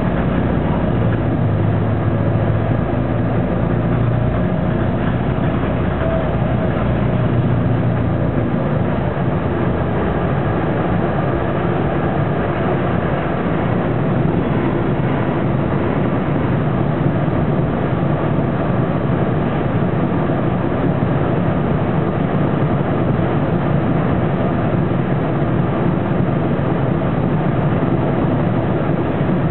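Detroit Diesel Series 50 inline-four diesel and Allison B500R transmission of a 2000 Neoplan AN460 articulated bus running while under way, heard inside the rear of the cabin. A strong low hum in the first several seconds settles into an even, steady rumble.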